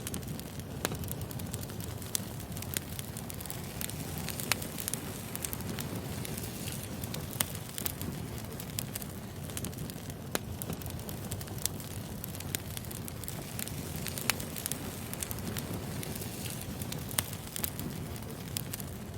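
Burning wood fire crackling: irregular sharp pops and snaps over a steady low rumble of the flames.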